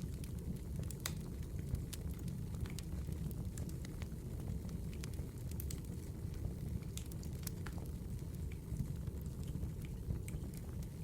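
Burning firewood crackling: irregular sharp pops and snaps over a steady low rumble from the fire.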